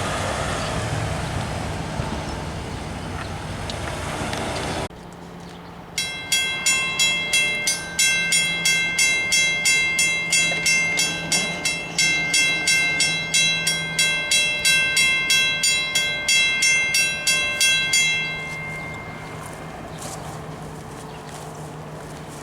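A loud rushing noise for about five seconds, then a sudden cut. About a second later a railroad crossing bell starts ringing with steady, evenly spaced strikes, roughly two to three a second, and stops a few seconds before the end.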